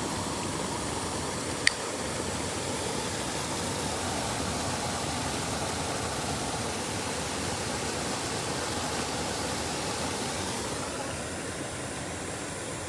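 Steady rush of flowing creek water, with one short sharp click about two seconds in.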